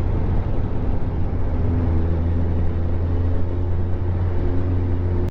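Motorcycle ridden at a steady speed: steady engine drone mixed with wind and road noise, picked up by a microphone on the tank bag.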